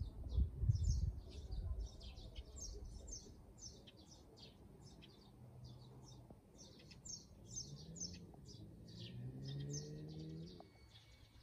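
Small birds chirping in many quick, short, high calls. A low rumble sounds in the first couple of seconds, and a faint low hum rises and holds from about seven seconds in before stopping near the end.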